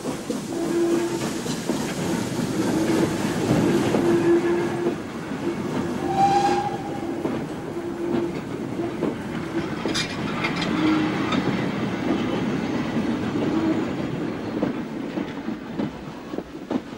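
Four-wheeled goods wagons of a steam-hauled freight train rolling past close by, their wheels clattering over the rail joints, with brief squealing tones coming and going. The sound fades near the end as the train draws away.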